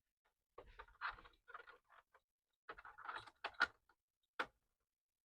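Faint handling noises of a small diecast model truck being picked up and turned over: scattered light clicks and rustles, with one sharper click about four and a half seconds in.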